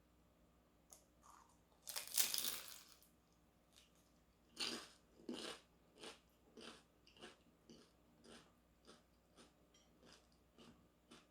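Biting into a crispy fried pastry close to the microphone: a loud crackling crunch about two seconds in, two more crunchy bites a little later, then steady crunchy chewing at about two chews a second.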